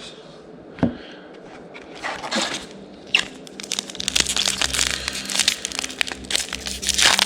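Magic: The Gathering trading cards and their packaging being handled. There is a single sharp click about a second in, then dense rustling and clicking from about four seconds in.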